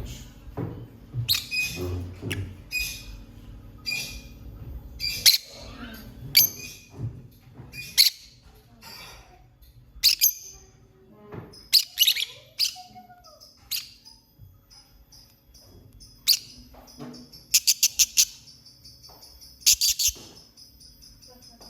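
Lovebirds chirping: short, sharp high calls a second or two apart, with a quick run of about six chirps about two-thirds of the way in.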